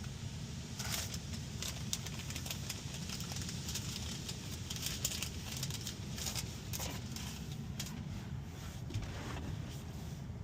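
Touchless car wash at work on a car: high-pressure water spray hissing and spattering irregularly against the body, over a steady low drone of the wash machinery.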